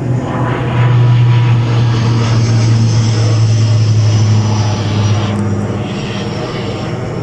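CASA C-295's twin turboprop engines running, with a strong steady low propeller drone that is loudest about a second in and then slowly eases off.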